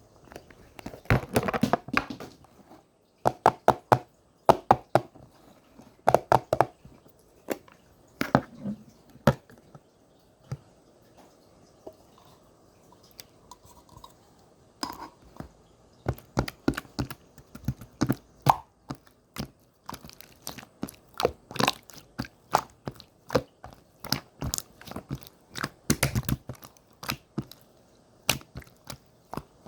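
Slime being squished and pressed by hand: irregular runs of sticky clicks, pops and crackles, with a quieter stretch around the middle.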